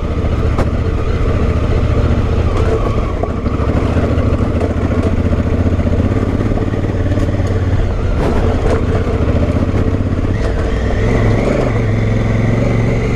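Honda Africa Twin's 998 cc parallel-twin engine running steadily as the motorcycle rides along a dirt trail, with a few knocks and rattles, and a change in the engine note about ten seconds in.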